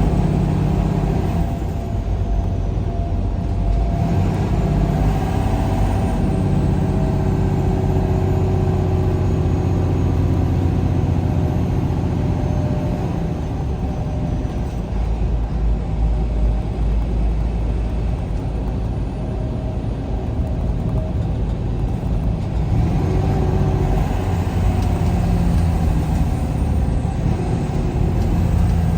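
A road vehicle driving steadily, its engine hum and tyre rumble running continuously. The engine pitch shifts a little now and then as the speed changes.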